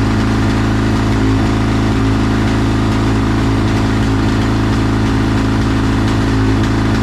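Quad bike engine idling steadily while warming up, with oil in its air box; the owner reckons it is running with too much fuel.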